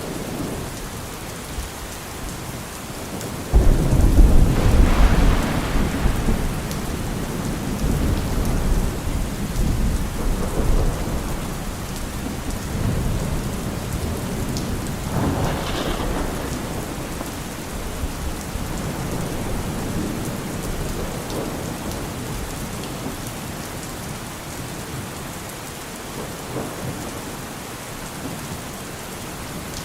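Steady rain with thunder: a loud low rumble breaks in about four seconds in and rolls on for several seconds, and a second, sharper peal comes about halfway through.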